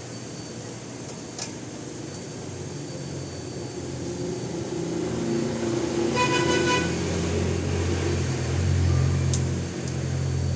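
A motor vehicle's engine hum swells as it passes close by, with a short horn toot about six seconds in. A couple of sharp clicks are also heard.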